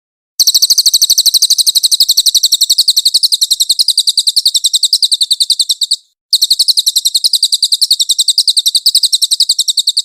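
Cililin songbird singing its rapid 'nembak' burst: a fast, even string of high, chirping notes, about ten a second. The string breaks off for a moment about six seconds in, then starts again.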